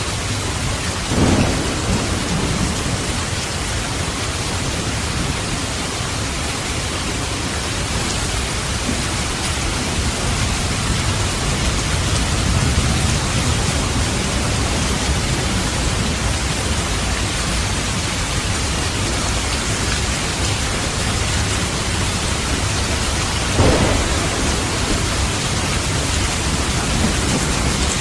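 Steady rain in a thunderstorm, with thunder rumbling low underneath. Two sharper thunder claps stand out, one about a second in and one near the end.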